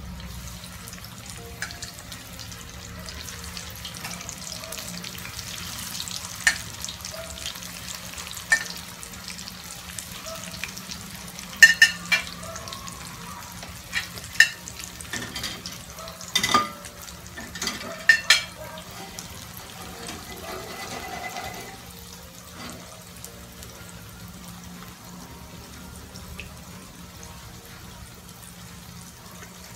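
Tofu slices frying in hot oil in a pan, a steady sizzle. Sharp clicks of metal tongs against the pan and plate come as pieces are added, mostly in the middle stretch.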